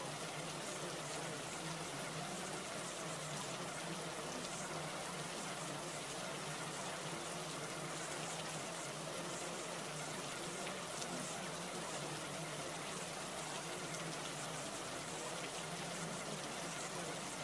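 Steady, even hiss like falling rain, unchanging throughout.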